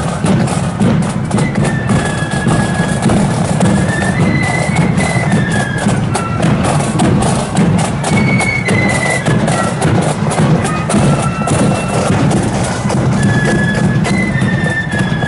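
Marching band playing a tune: a high melody line over rapid snare drumming and a steady bass drum.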